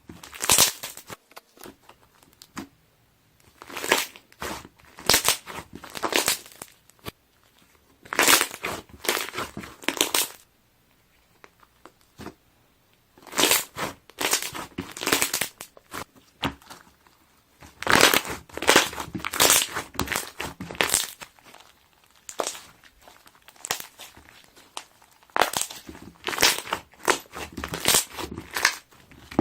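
Slime being pressed and squeezed, the air bubbles trapped in it popping in dense crackly clusters. The popping comes in bursts of one to three seconds with short pauses between them.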